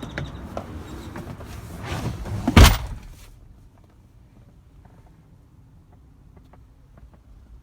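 A pickup truck door slamming shut about two and a half seconds in, after a stretch of steady outdoor noise. Then quiet with a few faint ticks.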